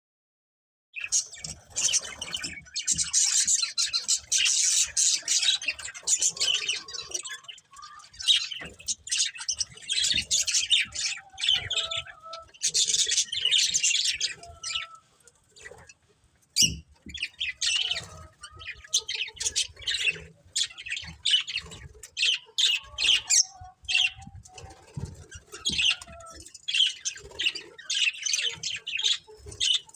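Several budgerigars chattering and chirping with squawks, in quick, busy runs, with a short lull about halfway through.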